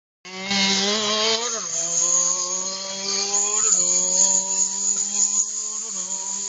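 A small motor or engine running steadily, starting suddenly about a quarter second in, with its pitch creeping up and then dropping sharply about every two seconds, under a high hiss.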